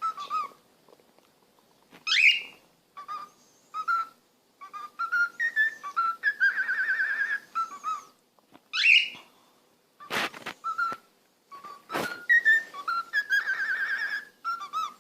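A parrot whistling: a string of short warbling whistle notes with a few quick upward-sweeping calls, broken by two sharp clicks about ten and twelve seconds in.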